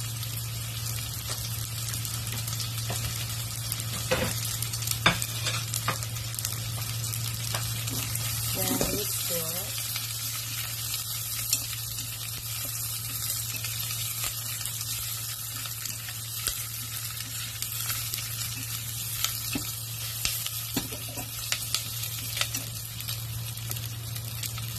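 Fried pork ribs and onions sizzling in a stainless steel saucepan while being stirred, the utensil clicking and scraping against the pan now and then. A steady low hum runs underneath.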